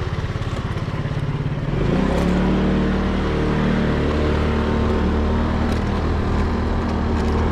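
Vehicle engine running under way; about two seconds in it speeds up, rising in pitch and loudness, then holds a steady drone.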